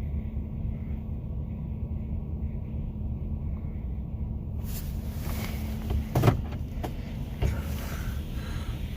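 Idling truck engine, heard from inside the cab as a steady low rumble. About halfway through, the automatic car wash's water spray starts hissing against the truck, with a few knocks, the loudest a second or so later.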